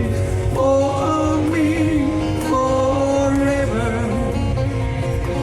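Live music: a slow sung melody with long held notes over acoustic guitar.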